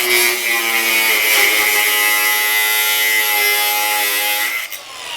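Electric angle grinder running at full speed, grinding metal with a steady high whine and hiss. Near the end it is released and spins down with a falling whine.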